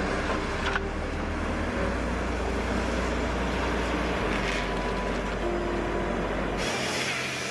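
Heavy machinery running with a steady low engine drone. Near the end the sound changes abruptly to a brighter, hissing machine noise without the low drone.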